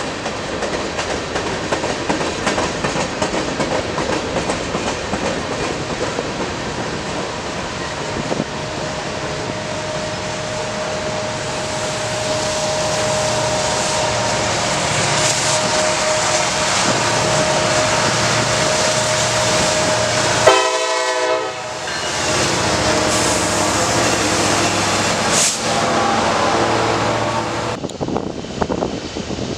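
Norfolk Southern train passing close by: a steady rumble of wheels on the rails that grows louder through the middle, with a brief abrupt break about two-thirds of the way through.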